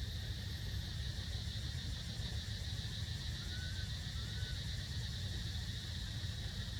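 Steady outdoor background noise: a low rumble under a constant high drone, with three faint short chirps around the middle and near the end.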